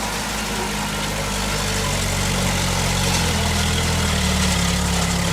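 Heavy diesel engine of a bulldozer running steadily, its pitch and level rising a little about two seconds in as it takes more throttle.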